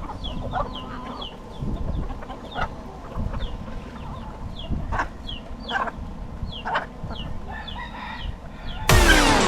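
Chickens: chicks peeping with short, high, falling cheeps about once or twice a second, hens clucking, and a rooster bursting into a loud crow near the end.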